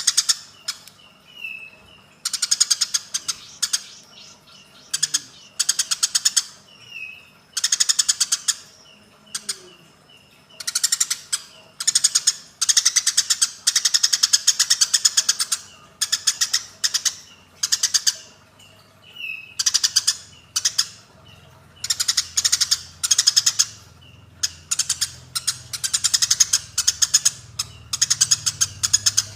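Eurasian tree sparrows giving fighting calls: bursts of rapid, harsh chattering chirps, each a second or two long, repeated with short gaps and a few single chirps between.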